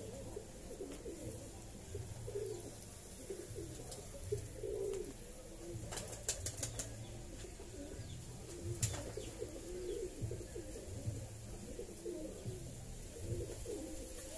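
Faint bird calls repeating in the background, low and wavering. A quick cluster of soft clicks comes about six seconds in and another near nine seconds.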